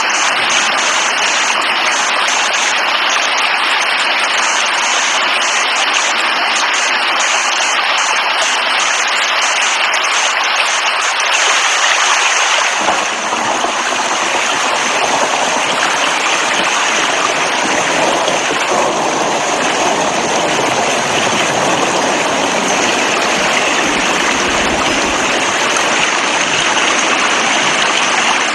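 Steady, heavy rainfall hissing. About halfway through the sound changes to a fuller, deeper rush of falling water.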